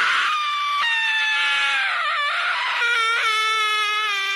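A person screaming in one long, high-pitched held note that steps down in pitch about a second in and again about three seconds in.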